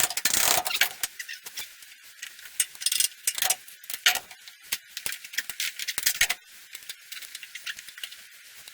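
Metal parts and hand tools clinking and rattling in irregular short bursts, with a louder clattering burst in the first second, as cylinders are fitted on a backhoe.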